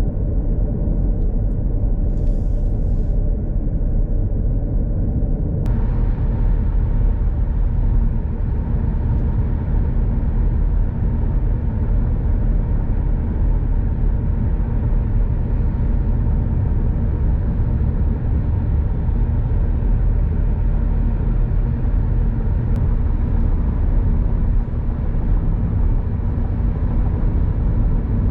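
2024 Audi S3 Sportback with its 2.0-litre turbo four-cylinder and Akrapovic exhaust driving at a steady speed: an even, low engine and road rumble. About six seconds in, a hiss of higher-pitched noise suddenly rises and then holds steady.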